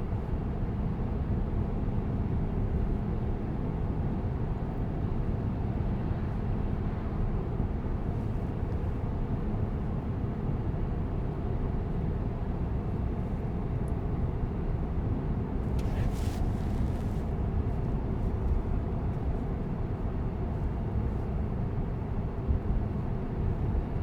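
Steady road and tyre noise heard inside the cabin of a moving Tesla Cybertruck, an electric truck with no engine note. A brief hiss comes about two-thirds of the way through.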